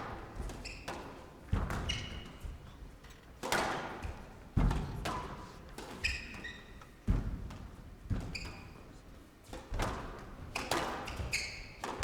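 A squash rally: the ball is struck hard by rackets and hits the walls in sharp thuds every second or two, with shoes squeaking on the court floor as the players lunge and turn between shots.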